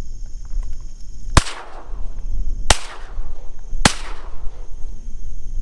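Three shotgun shots about a second and a quarter apart, each followed by a short echoing tail, over a steady high insect buzz.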